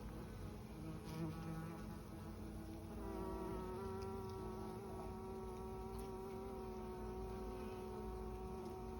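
Honeybees buzzing in a steady hum, with a clear pitched drone that swells about three seconds in and then holds.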